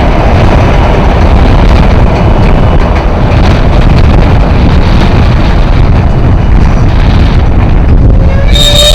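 Strong wind buffeting the microphone over a slowing freight train. Near the end, a high, steady squeal of the train's brakes starts as it comes to a stop.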